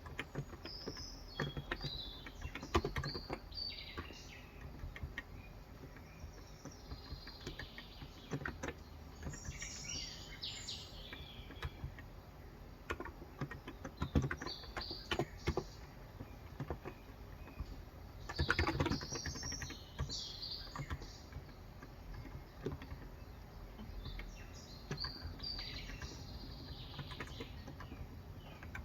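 Typing on a Cox Endeavor tenkeyless keyboard with electrostatic capacitive (non-contact) 35 g switches, keystrokes coming in irregular bursts. Birds chirp in short phrases several times over the typing.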